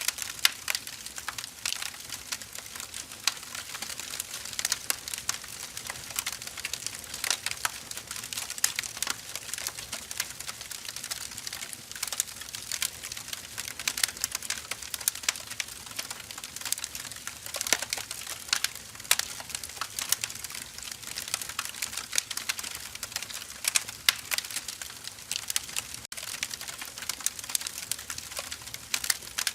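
Firewood burning with steady, dense crackling and frequent sharp pops over a soft hiss.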